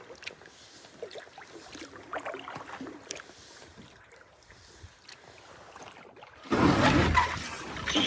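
Quiet paddling with small water drips and knocks. About six and a half seconds in, a sudden loud scraping starts as the basalt/carbon Innegra canoe hull grinds up onto an obstacle in the shallows and runs aground.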